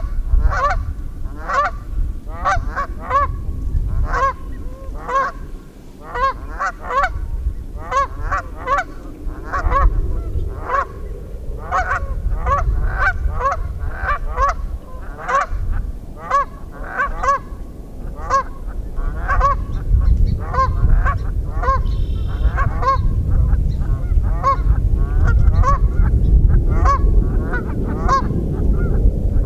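Geese honking over and over, many birds calling in a continuous run of short honks, over a low rumble that is heavier in the second half.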